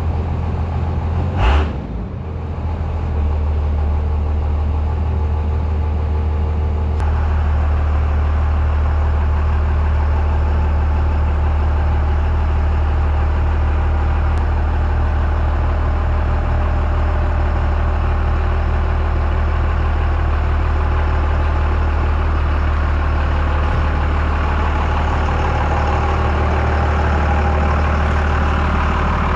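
Dodge pickup truck's engine running steadily with a deep, even drone. A single sharp bang comes about a second and a half in.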